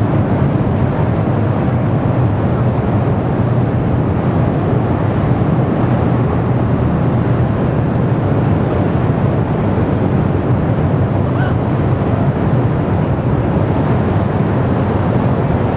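Ruptured underground steam pipe venting high-pressure steam out of the ground: a loud, steady rumbling that does not let up.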